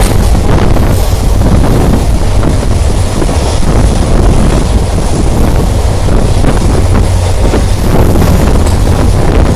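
Wind buffeting the microphone over the steady rumble of a passenger train running at speed, heard from on board.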